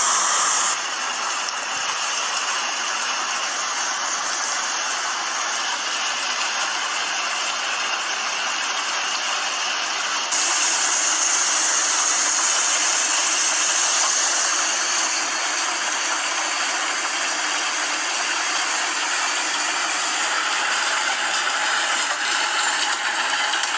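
Storm footage of a heavy downpour, rain and hail falling hard as a steady hiss. It changes abruptly about a second in and again about ten seconds in.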